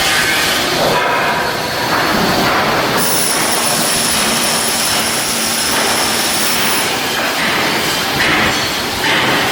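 Loud, continuous industrial noise of shipbuilding work, with a thin high-pitched whine through the middle; the sound changes abruptly a few times.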